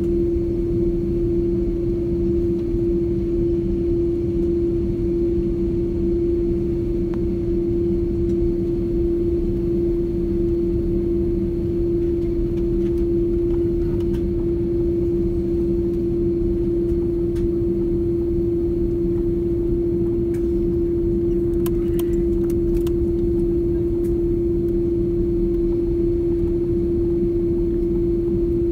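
Steady jet airliner cabin noise with the engines running: an even low rumble under a constant hum tone, heard from inside the cabin, with a few faint clicks about three-quarters of the way through.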